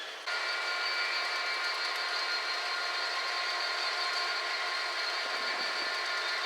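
Railway locomotive running steadily, a hum with several high whining tones held at a fixed pitch, which starts abruptly just after the beginning.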